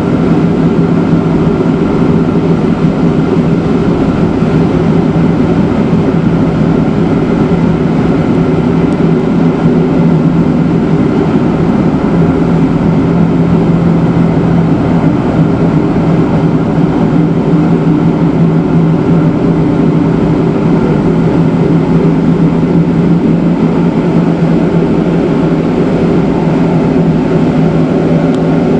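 Matterhorn Gotthard Bahn electric rack-railway train running steadily along a section with a cog rack: a constant loud running noise with a steady hum of several tones.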